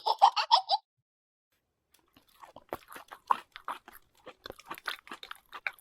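Crunching and chewing sounds: a fast, irregular run of crisp crunches fills the last four seconds or so. It comes after a brief, high, pulsed sound at the very start and a short pause.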